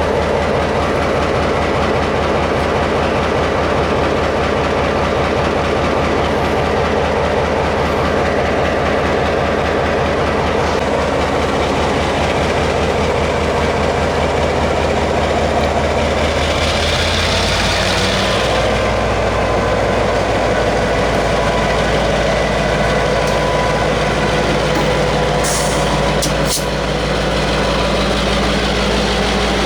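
Locomotive running close by with a steady low drone and a rhythmic clatter of wheels on rail. Just over halfway through, its running note changes and a short hiss sounds, and a few sharp clicks come near the end.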